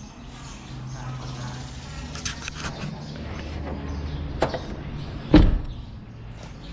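A vehicle engine idling with a steady low hum, under several sharp clicks and one heavy thump a little after five seconds in.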